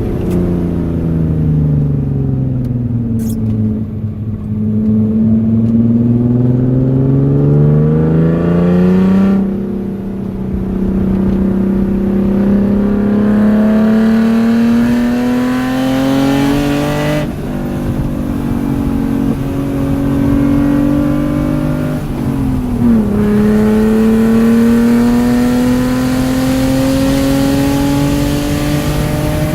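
BMW E36 325i's 2.5-litre straight-six pulling through the gears. The engine note sinks for the first few seconds, then climbs steadily under acceleration, broken by gear changes at about ten, seventeen and twenty-three seconds.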